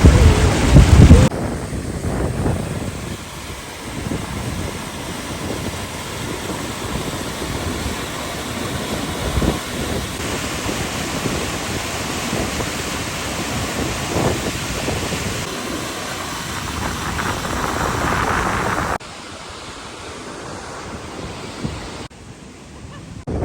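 Steady rushing of a river and waterfall, with wind buffeting the microphone for about the first second. The level drops or jumps abruptly a few times, and is lower over the last few seconds.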